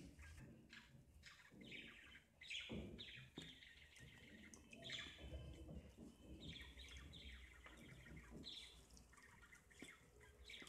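Faint birds chirping over and over, with soft clicks and scrapes of a metal spoon in a bowl as dry flour is mixed into batter.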